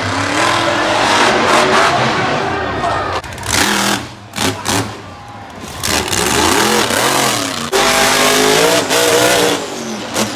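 Monster truck engine revving hard, its pitch rising and falling again and again, easing off for a couple of seconds around the middle before picking up again.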